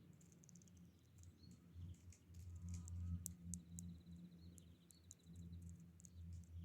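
Small wild birds chirping and calling, with a fast trilled run of high notes in the middle, over a low steady rumble of background noise.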